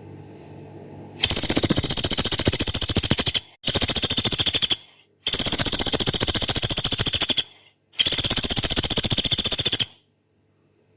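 Pelatuk beras woodpecker giving long, harsh, rapid rattling trills, four runs of very fast repeated notes, each one to two seconds long, with short breaks between them.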